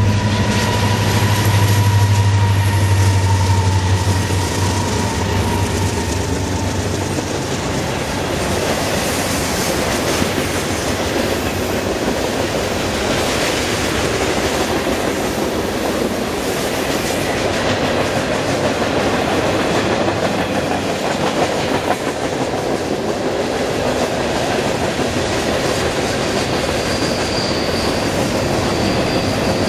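Diesel freight locomotives passing, their low engine drone fading over the first several seconds. Then the rumble and clickety-clack of freight cars rolling by on the rails, with a thin, high wheel squeal starting near the end.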